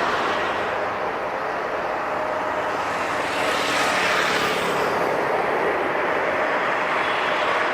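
Jet airliner engines running with a steady rushing noise and a faint whine, and a high hiss that swells and fades about halfway through.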